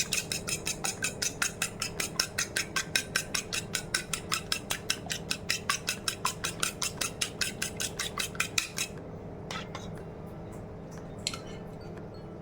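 An egg being beaten with a utensil in a bowl: quick, even clicks of the utensil against the bowl, about five a second, that stop about nine seconds in, followed by a few scattered clinks.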